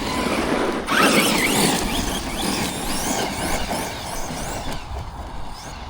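Arrma Notorious 6S RC monster truck driving, its brushless electric motor whining up in pitch again and again as the throttle is blipped, over the noise of tyres on dirt and gravel.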